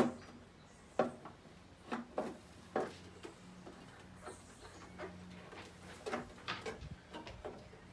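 Handling noises: a few light knocks and taps, the sharpest right at the start and about a second in, over a faint steady hum.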